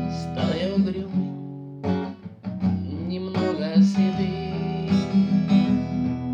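Acoustic guitar strummed in a chordal accompaniment, with a brief drop in level about two seconds in.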